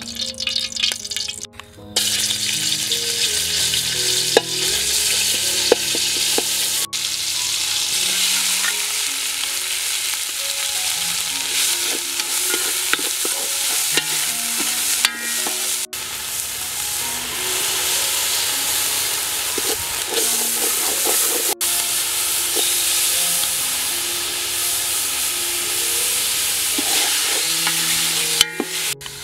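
Green herb paste sizzling as it fries in a large aluminium pot, a loud steady hiss that starts abruptly about two seconds in, with a few sharp clicks.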